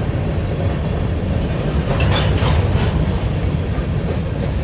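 Freight cars of a long, slow train rolling past: a steady low rumble of wheels on rail, with a short stretch of metallic clatter about two seconds in.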